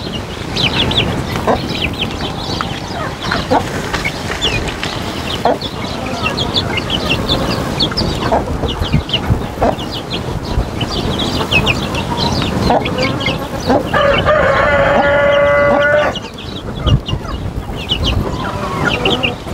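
Month-old chicks peeping over and over, with a mother hen clucking. A rooster crows once near the end, for about two seconds.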